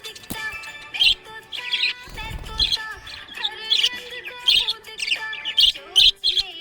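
Budgerigars chirping and warbling in quick, repeated high twitters over background music with a steady melody.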